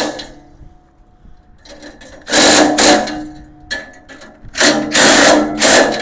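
DeWalt electric power driver running in several short bursts, each under a second, as it drives and tightens bolts on a steel tool cart.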